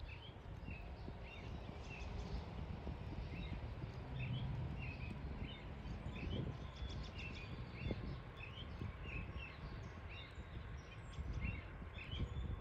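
Small birds chirping outdoors, short high notes repeating every half second or so, over a low steady rumble.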